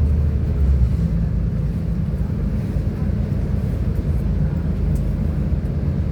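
West Midlands Railway Class 172 Turbostar diesel multiple unit under way, heard from inside: a steady low rumble of its underfloor diesel engine and wheels on the track, with a slight shift in the engine note about a second in.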